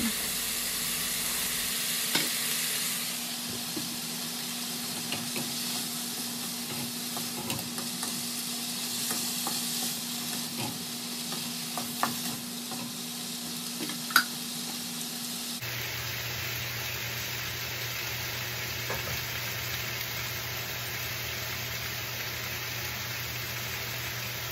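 Chicken, tomato and string beans sizzling in olive oil in a nonstick wok, stirred with a wooden spatula that scrapes and knocks against the pan now and then; the loudest sound is a sharp knock about fourteen seconds in. About fifteen seconds in the sound changes abruptly to a steady sizzle with hardly any stirring.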